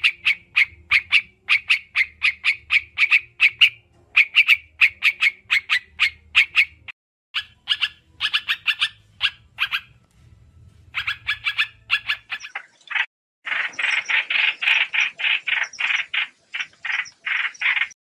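Rapid runs of short, repeated calls from a small songbird the Vietnamese call trao trảo, from a recording used as a trapping lure. There are brief gaps about 7 and 10 seconds in, and the last few seconds turn into a harsher, denser chatter.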